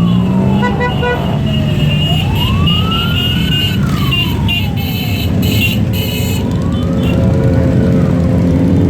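A siren wailing slowly, its pitch rising and falling about every four seconds, over the steady low rumble of engines. Short high beeps come and go around the middle.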